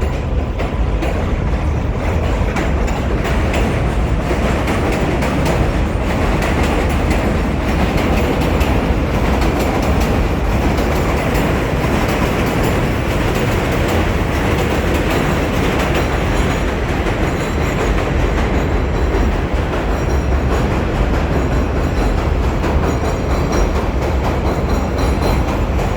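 New York City subway E express train running at speed, a steady loud rumble of steel wheels on the rails throughout.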